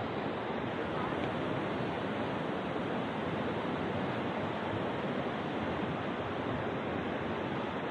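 Steady rush of a waterfall and fast mountain stream, an even roar of water with no breaks.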